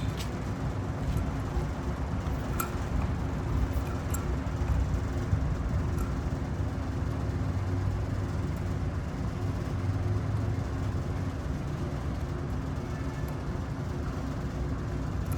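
Steady low mechanical hum and rumble, like machinery running, with a few faint clicks and taps.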